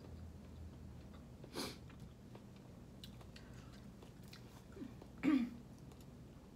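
A person chewing food close to the microphone, mostly faint, with two short louder mouth noises: one about a second and a half in and another near the end.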